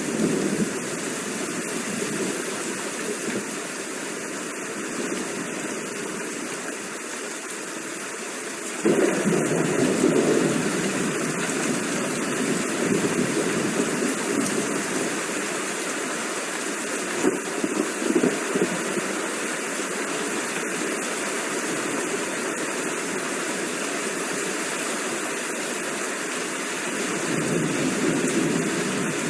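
Steady heavy rain hiss. A low rumble comes in suddenly about nine seconds in, with further swells of rumble later and near the end, likely distant thunder.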